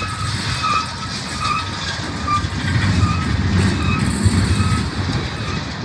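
Low, steady rumbling of a passing freight train, with a short high tone repeating every half second or so that fades out about halfway through.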